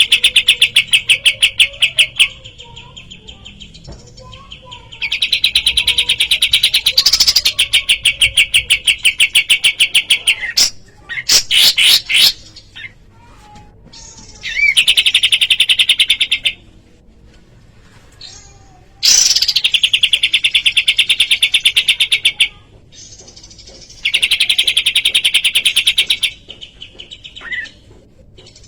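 Kapas tembak songbird singing in loud bouts of rapid, evenly repeated high notes, a fast trill lasting a few seconds at a time, five times, with quieter gaps between and a short burst of sharper calls in the middle.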